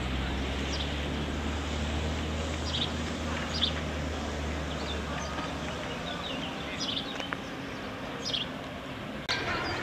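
Outdoor park ambience: short bird chirps now and then over a steady background hiss, with a low steady hum that stops about five seconds in.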